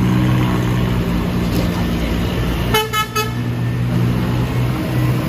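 Scania coach engine running steadily under load as the bus pulls uphill, with three short horn toots about three seconds in.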